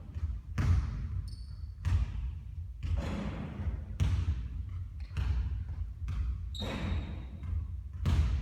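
A basketball bouncing hard on a court, one sharp thud about every second, each ringing briefly in a large hall, with two short high squeaks in between.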